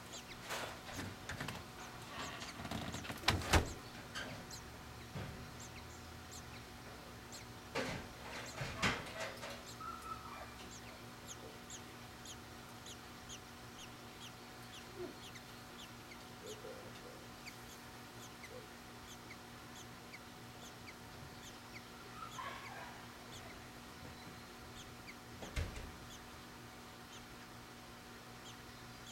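Faint, short, high bird chirps repeating, with a few louder knocks a few seconds in, around eight seconds in and near the end, over a low steady hum.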